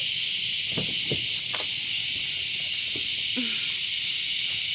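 Chorus of insects in trees and grass, a steady high-pitched drone with no break. There are a few faint short sounds lower down about a second in.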